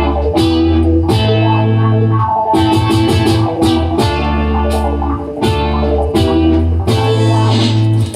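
Instrumental passage of a reggae song with no vocals: electric guitar over a bass line and drums.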